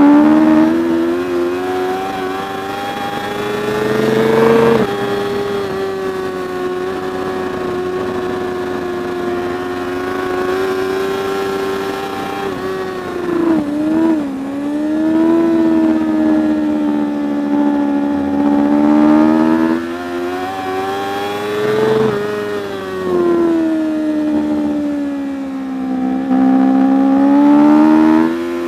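Racing superbike engine at high revs. It rises in pitch as it accelerates and drops suddenly at upshifts, about five seconds in and again near the three-quarter mark. About halfway through it falls away with a few quick wavers as the bike slows and changes down, then climbs again.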